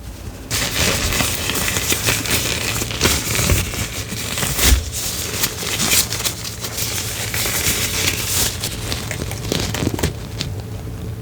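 Dense crackling, crinkling noise of something being handled, with many small clicks, starting about half a second in and easing off about ten seconds in.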